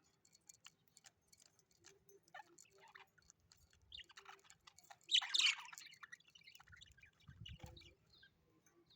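Birds giving short chirps and clicks, with one louder, harsh call about five seconds in and a brief low thump near the end.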